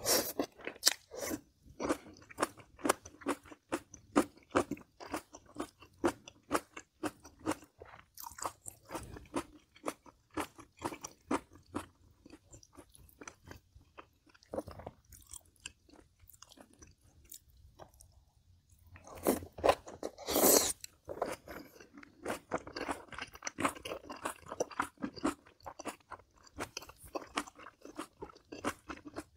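Close-up chewing and crunching of crisp, lightly braised kimchi and pork rib meat, a rapid run of wet crunches several times a second. A louder, longer stretch of noise comes about twenty seconds in.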